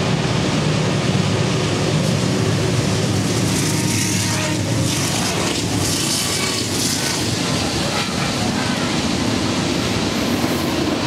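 Diesel-hauled train passing underneath, its engine rumbling steadily, with a hiss of wheels on rail that swells about four seconds in.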